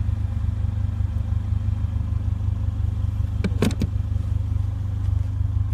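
Steady low hum of an idling car engine, with a brief clatter of a few clicks about three and a half seconds in.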